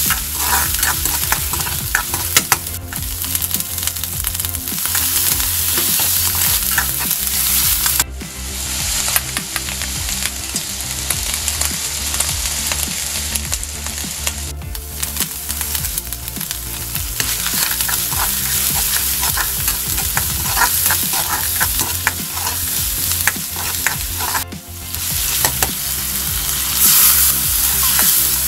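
Food sizzling as it fries in a hot pan while being stirred, with frequent sharp clicks and scrapes of a metal spatula against the pan, over a steady low hum. The sound breaks off abruptly and resumes three times.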